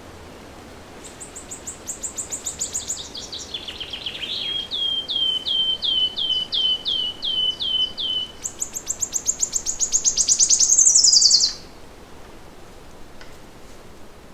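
A songbird singing one long song of about ten seconds over a faint steady hiss. It opens with a fast, high trill that steps lower, continues with a run of downward-slurred notes about three a second, and finishes with another fast, high trill that grows loudest just before cutting off.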